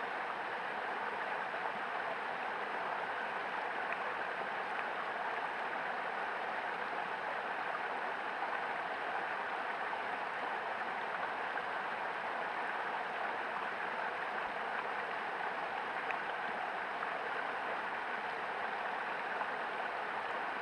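Mountain creek water rushing steadily, an even, unbroken rush.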